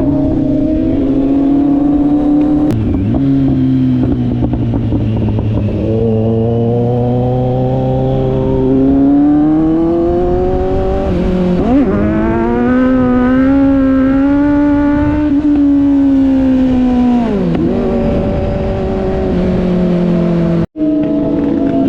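Sport motorcycle engine running under way, its pitch rising and falling as the rider works the throttle through the gears, with a brief sharp cut in the sound near the end.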